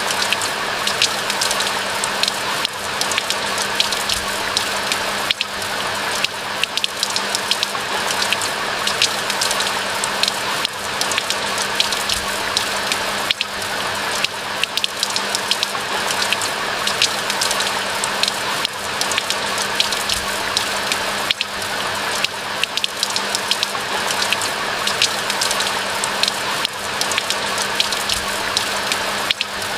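Steady rain falling: a constant hiss full of sharp individual drop ticks, with a faint steady low hum underneath.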